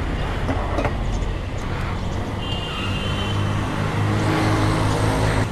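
A motor vehicle engine running steadily at low revs, with a brief high-pitched tone about two and a half seconds in.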